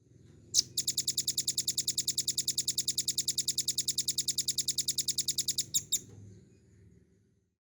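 Velvet-fronted nuthatch singing one long, fast trill of sharp high notes, about ten a second for roughly five seconds, opening with a louder note and ending with two separate ones. A low hum lies underneath.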